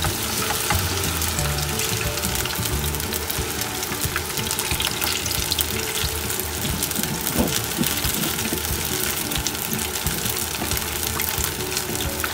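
Onion and flour-batter kakiage frying in hot canola oil, about 170 °C, in a deep frying pan: a steady dense sizzle with fine crackling from the bubbling oil around freshly added fritters.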